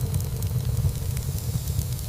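Wood fire burning in a fireplace: a steady low rumble of flames with frequent small crackles and pops of burning wood.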